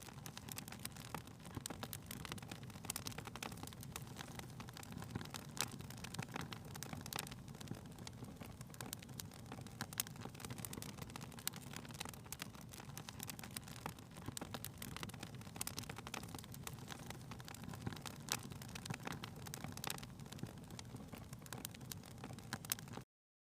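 Fire crackling in a fireplace: a steady low rumble of flames with irregular sharp pops and snaps, cutting off suddenly near the end.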